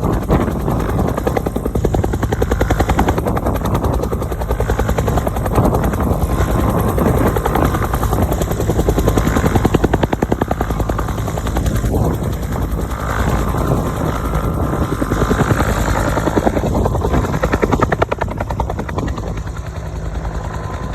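Bell UH-1 Huey helicopter running loud and steady: the rapid, even beat of its two-blade main rotor over the turbine engine's noise.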